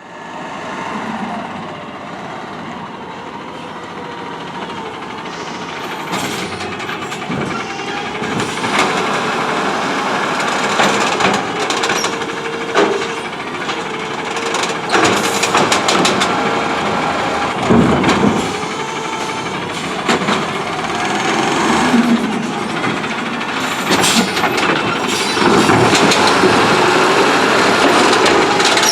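Autocar ACX garbage truck's CNG engine running while its Amrep automated side-loader arm works, with a steady hydraulic whine and repeated clanks and bangs from the arm and cart dumping.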